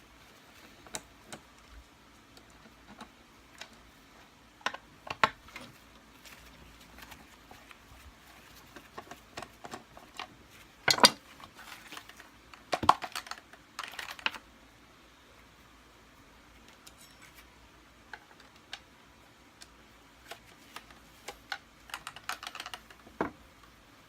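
Screwdriver working screws out of the underside of a Kirby Sentria II vacuum's plastic body: scattered small clicks, scrapes and taps, with a louder clatter about eleven and thirteen seconds in.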